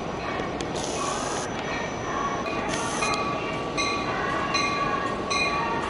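Amtrak Keystone push-pull train, Metroliner cab car leading, rolling into the station with a steady rumble and a thin squeal from the wheels. Two short hisses come about a second in and again near the middle. In the last couple of seconds a high pulse repeats about once a second.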